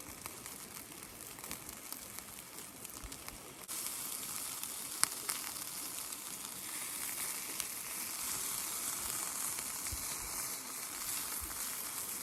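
Yakitori skewers sizzling over binchotan charcoal on a small tabletop grill: a steady hiss that grows louder about four seconds in, with one sharp click about a second later.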